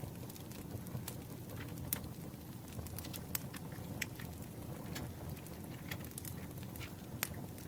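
Campfire crackling: irregular sharp pops and snaps over a steady low rush.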